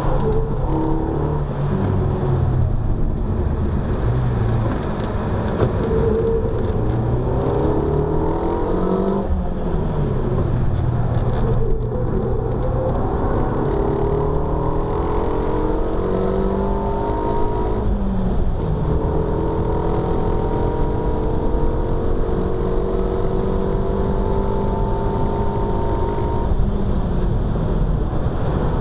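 Car engine heard from inside the cabin while being driven hard on a race circuit, its pitch repeatedly climbing under acceleration and dropping back on gear changes and braking, over steady tyre and road noise.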